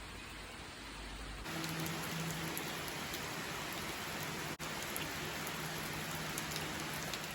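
Steady rain falling, an even hiss with faint scattered drop taps. About a second and a half in it turns louder, with a steady low hum underneath.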